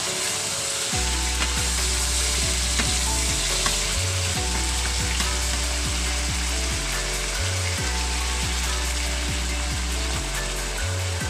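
Chicken pieces frying in oil in a wok, a steady sizzle with light scrapes as they are stirred with a wooden spatula. A low bass line of background music changes note every second or so underneath.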